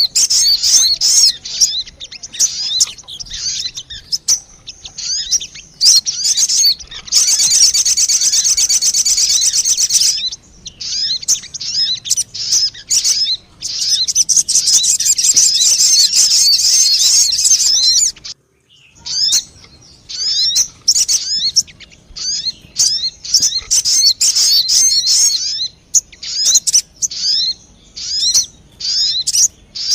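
Sogon bird lure calls: rapid, high-pitched chirps and dense twittering trills, with a brief drop-out a little past the middle.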